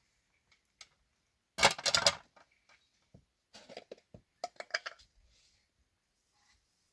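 Clattering of small hard objects being handled: a loud burst of knocks and clicks about a second and a half in, then a run of lighter clicks and taps.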